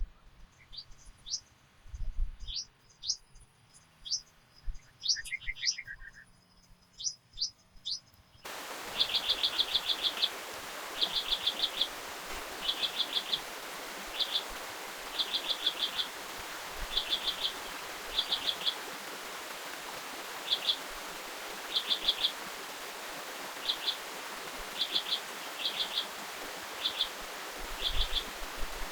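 Forest birds give short, high chirps over quiet background sound. About eight seconds in, a steady rushing noise cuts in abruptly. Over it, one animal repeats a call of rapid chirps in quick clusters every second or two.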